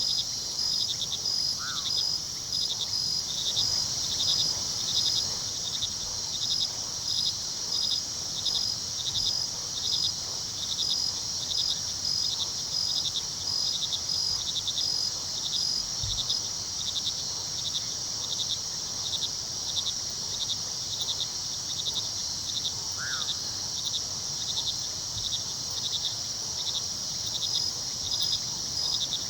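Crickets chirping in a steady high trill, pulsing about twice a second, over the faint low rush of river water. Two short, higher calls stand out briefly, about two seconds in and again near the end.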